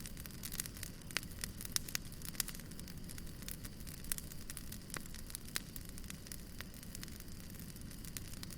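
Wood fire burning with irregular sharp crackles and pops over a low, steady rumble of flame.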